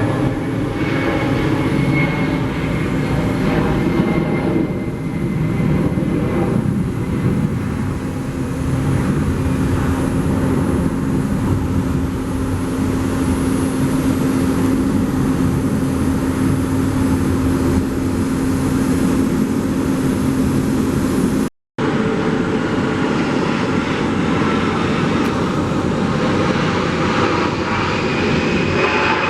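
Jet airliner engines running, a loud steady noise with a low hum through it. The sound drops out for a moment about three quarters of the way through, then carries on.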